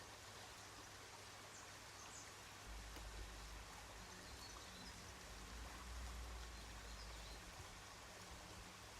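Faint, steady rush of a valley stream, with a few faint high chirps and a low rumble from about three to seven seconds in.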